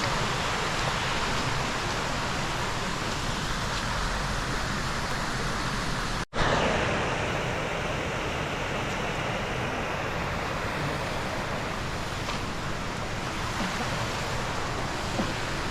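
Steady rush of a mountain stream, the Kibune River, flowing over rocks. The sound breaks off for an instant about six seconds in, then carries on.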